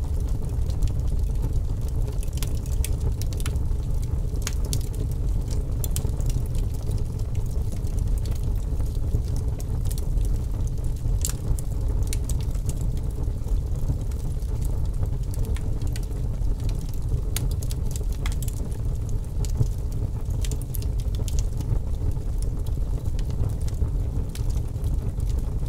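Wood fire burning in a fireplace: a steady low rumble of flames with scattered crackles and pops.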